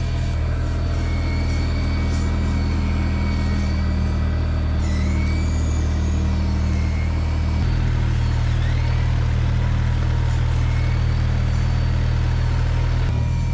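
Mini excavator's diesel engine running steadily, a continuous low drone with thin higher tones above it; the engine note shifts slightly about halfway through.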